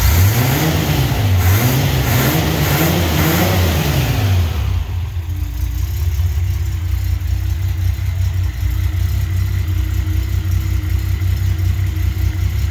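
1973 Datsun 240Z's 2.4-litre L24 straight-six on side-draft carburettors, revved several times at the throttle linkage, each rev rising and falling. About five seconds in it drops back to a steady, even idle.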